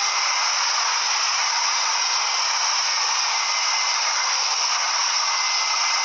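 A loud, steady hiss with no low rumble, and a faint thin tone held through it.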